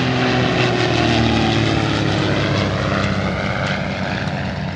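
Airplane engine passing overhead, a steady drone whose pitch falls slowly as it goes by.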